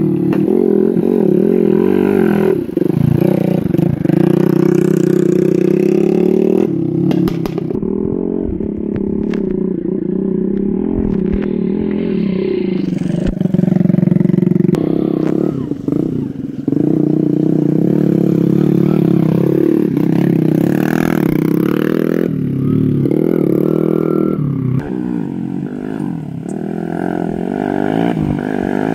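Engine of a motorbike rigged for hauling harvests, running steadily. Its pitch rises and falls as the throttle changes, and it drops away briefly a few times.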